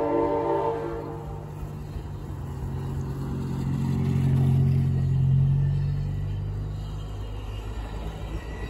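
A diesel locomotive's horn chord cuts off about a second in, then the engine's low rumble and drone swell to a peak midway and fade.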